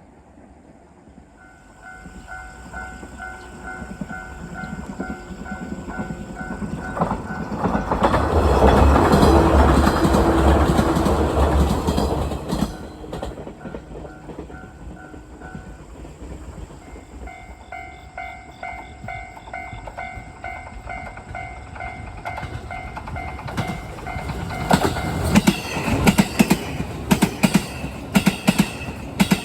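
Japanese level-crossing warning bell clanging in a steady rhythm while an electric train passes loudly about 8 to 12 seconds in, drowning the bell out. Near the end the bell rings again over a train's wheels clacking over rail joints, a fast run of sharp clicks.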